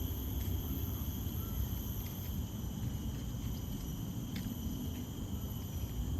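Steady insect chorus in tropical parkland: several constant high-pitched tones held without a break, over a steady low rumble.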